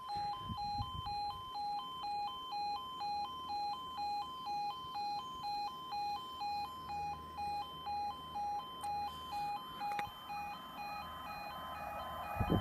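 UK level crossing audible warning: the two-tone 'yodel' alarm alternating between a lower and a higher tone about twice a second. It drops away about ten seconds in, and a rising rumble builds near the end as the train approaches, turning loud right at the end.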